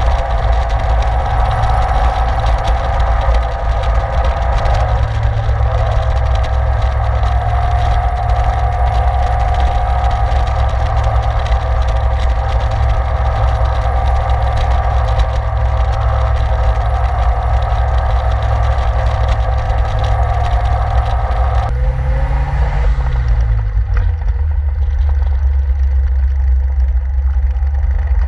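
Caterham 7 engine running at steady cruising speed, with heavy wind rush in the open cockpit. About three-quarters of the way through, the wind noise drops away sharply and the engine note falls, settling into a lower, steady note at low speed.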